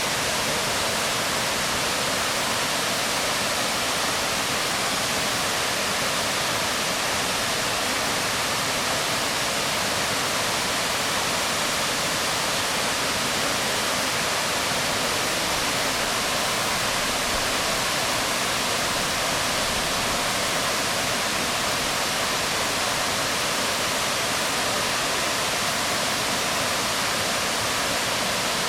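A waterfall falling onto rocks: a steady, unbroken rush of water.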